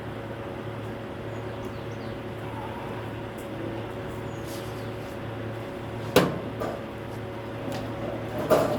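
Steady hum of a truck engine running, with two sharp clunks, one about six seconds in and another near the end.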